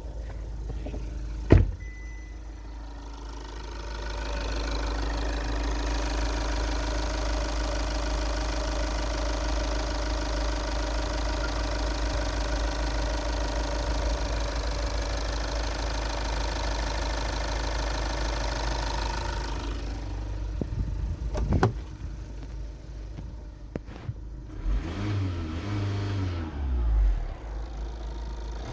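Skoda Superb 2.0 TDI (CBBB) four-cylinder common-rail diesel engine idling steadily. A sharp click comes about a second and a half in. After about twenty seconds the running sound drops, with a couple of knocks and a brief rise and fall in engine pitch near the end.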